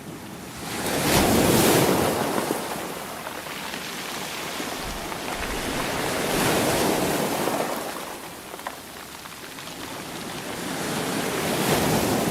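Sea waves breaking, the surf swelling and falling back three times, about five seconds apart.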